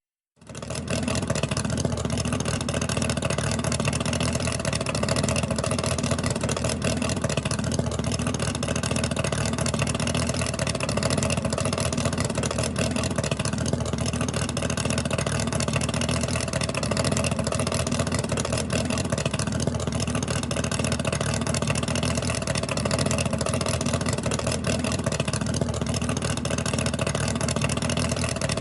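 Engine of a digging machine running steadily at constant revs while earthworking, with an even, unchanging engine note.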